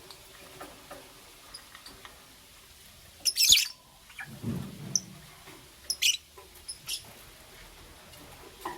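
Pet lovebirds chirping in short, high chirps, with a loud burst of chirps about three seconds in and another just past the middle. A brief low rustling sound follows the first burst.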